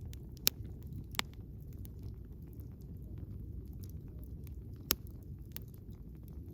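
Wood campfire burning, with a steady low rumble of flames and a few sharp pops and crackles from the firewood, the loudest about half a second in and again just before five seconds.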